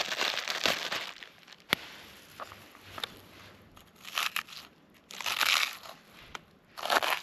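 Several short bursts of crunching, crinkling rustle, with a sharp click between the first two bursts.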